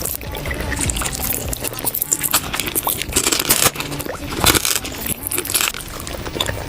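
Close-miked biting and chewing of crunchy food: a dense, irregular run of crisp crunches and crackles.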